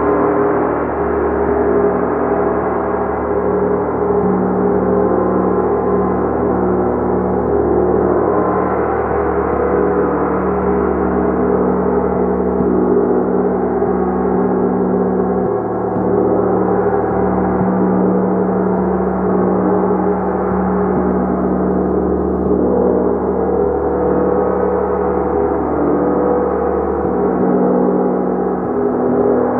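Large gong played continuously, a dense wash of many overlapping tones that shimmer and waver, held at a steady level throughout.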